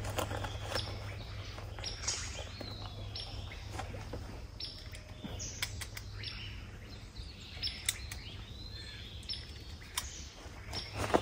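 Birds chirping in forest: a string of short, high chirps and calls, some bending in pitch, with a few sharp clicks near the end.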